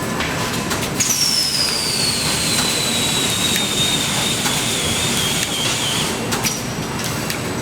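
Factory production machinery running with scattered clicks and knocks; about a second in a high whine starts and falls steadily in pitch for about five seconds, as a spinning machine part slows.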